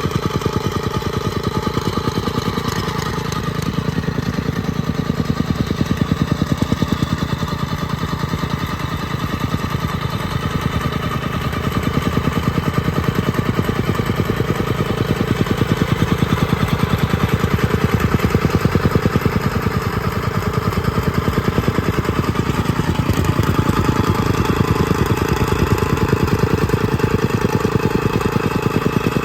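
Compactor's small engine running steadily, with a rapid, even pulsing throughout and slight swells in loudness.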